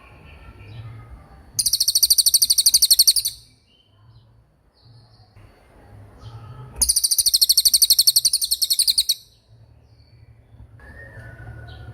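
Bird song from a masteran recording: two bursts of a very fast, high-pitched trill, each about two seconds long and about three seconds apart, with fainter chirps between.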